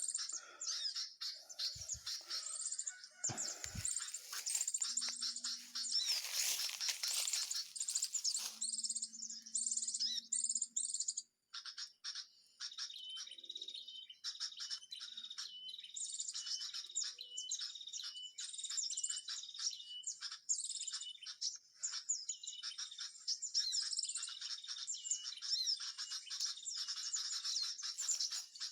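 Many small birds chirping and singing at once, high and dense, with rapid repeated notes. A short burst of rustling noise comes about six seconds in, and the sound briefly cuts out a little before halfway.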